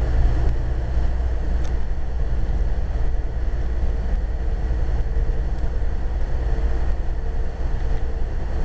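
A Metrolink commuter train coach in motion, heard from inside: a steady low rumble of the wheels on the rails. A faint hum comes and goes over it.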